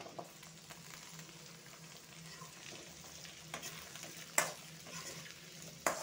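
Cubed potatoes frying in hot oil in an aluminium kadhai, a steady sizzle as a metal spoon stirs them. Three sharp clicks of the spoon against the pan in the second half, the middle one the loudest.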